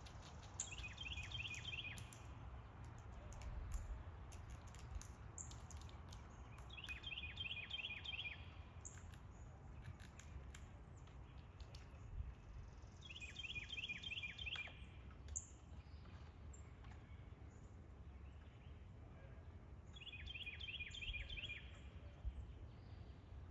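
A songbird repeating a short, fast trill of about eight notes, four times at roughly six-second intervals, over a steady low outdoor rumble with scattered faint high ticks.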